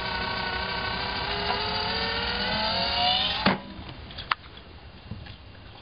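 GoDogGo automatic ball launcher's motor whining, its pitch sagging and then climbing, until it cuts off suddenly with a sharp clunk about three and a half seconds in. A few faint clicks follow.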